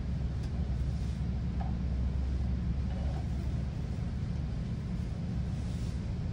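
GO Transit commuter train running between stations, heard from inside the coach: a steady low rumble of wheels and track, with a few faint ticks.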